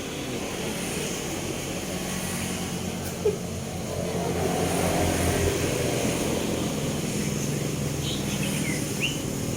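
Steady low hum of a passing motor vehicle that swells about four seconds in, with a sharp click a little after three seconds. Near the end come a few short, falling chirps from a young cemblek sawah bird.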